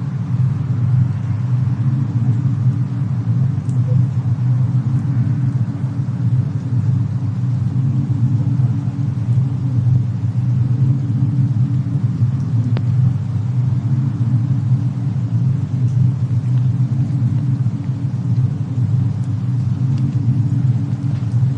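Fireplace-and-snowstorm ambience: a steady, deep rumble with no change, and a few faint crackle-like clicks on top.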